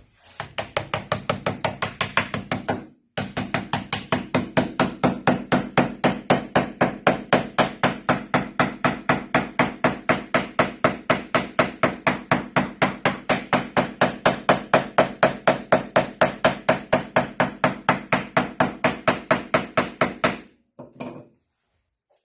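Rapid, even mallet blows driving a chisel into wood, about four strikes a second, with a short pause about three seconds in; the strikes stop near the end.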